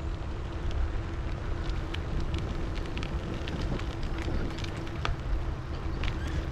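Wind rumbling on the microphone of a moving bicycle, with scattered light ticks throughout.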